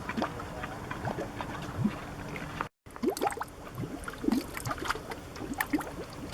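Mud pots bubbling: carbon dioxide gas rising through wet mud and bursting at the surface in irregular plops and gurgles, each a short upward-sweeping blip. The sound breaks off for a moment a little under three seconds in, then the bubbling carries on.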